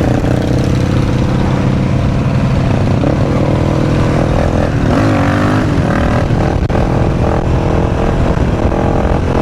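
Supermoto motorcycle engine running steadily while riding, with a short dip and rise in engine pitch about five seconds in.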